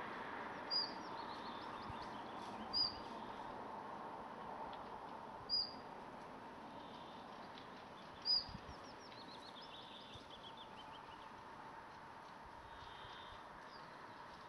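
A small songbird calling: a short, high, down-slurred chirp four times, a few seconds apart, with a faint run of quick twittering notes about two-thirds of the way through, over a faint steady outdoor hiss.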